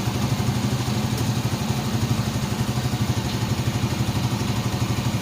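Motorcycle engine of a Philippine tricycle running steadily at an even speed, a fast, even pulsing heard from aboard.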